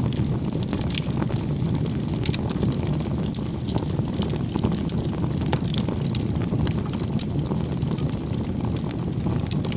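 Wood fire burning: a steady low rush of flames with frequent sharp, irregular crackles and pops.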